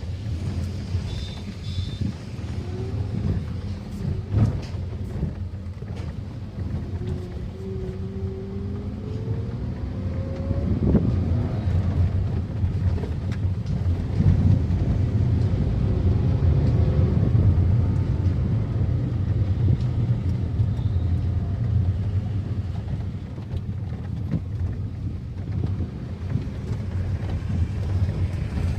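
A car being driven: steady low engine and road rumble, with the engine note rising over the first ten seconds or so as it accelerates, and the rumble louder in the middle.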